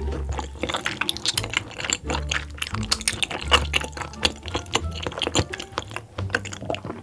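Close-miked wet chewing: many quick smacking clicks of a mouthful of sauce-glazed pork being chewed, over background music with a low, steady bass.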